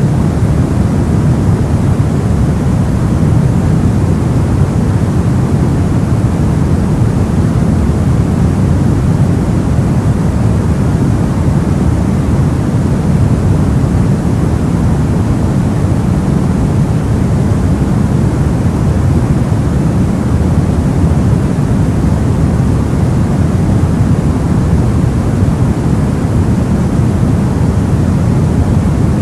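Steady soft white noise for sleep: an even, unchanging rush weighted toward the low end, with little hiss.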